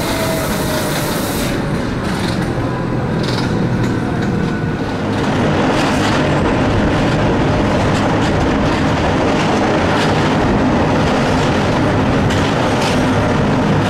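Electric mountain railway train running along the track: steady wheel-on-rail noise with a few sharp clicks and a faint whine that slowly falls in pitch over the first few seconds. The noise grows louder about five seconds in.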